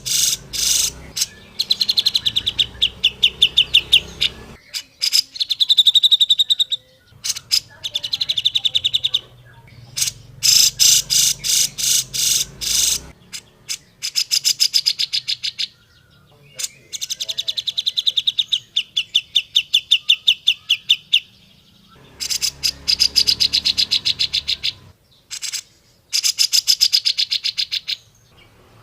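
Grey-cheeked bulbul (cucak jenggot) singing in fast chattering trills of rapid, high repeated notes. The phrases last one to three seconds, with short breaks between them.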